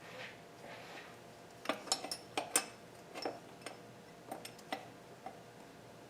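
Irregular metallic clinks and clicks of hand tools against engine hardware: a quick cluster of clinks about two seconds in, then scattered single clicks.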